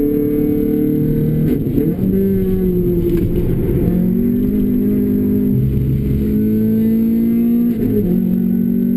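Renault Clio RS engine running hard through a Bastuck aftermarket exhaust. The engine note dips and then climbs slowly, with short breaks about two seconds in and near the end as gears change.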